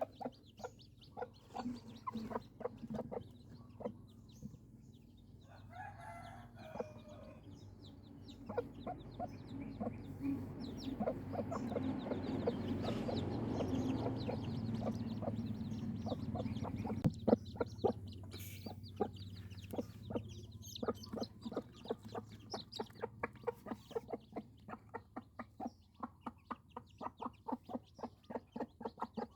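Chickens clucking, with a long run of short, quick calls. A rushing noise swells up and dies away in the middle.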